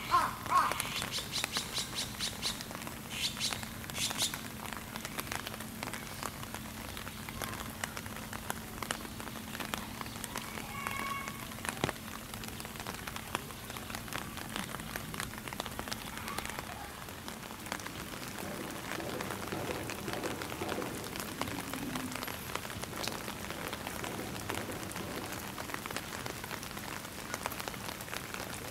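Steady light rain pattering. A crow's cawing trails off in the first moment, quick chattering bird calls follow for a few seconds, and a short bird call comes about eleven seconds in.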